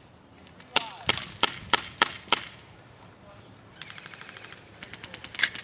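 Airsoft guns firing: six loud sharp shots in quick succession about a second in, then a fainter, faster automatic burst, and more scattered shots near the end.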